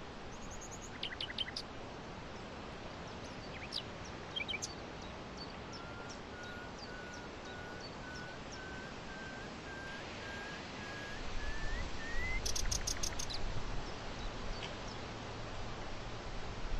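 Birds chirping over a steady outdoor hiss: scattered quick high chirps, and a run of short, evenly spaced notes, about two a second, that slowly rise in pitch. A low rumble comes in about two-thirds of the way through.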